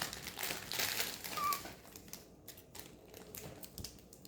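Packaging rustling and crinkling as the contents of a package are handled, busiest in the first second and a half, then dropping to faint light clicks and rustles.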